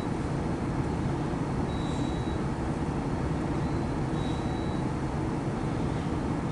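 Loaded autorack freight train rolling by: a steady low rumble, with a faint high tone coming back about every two seconds.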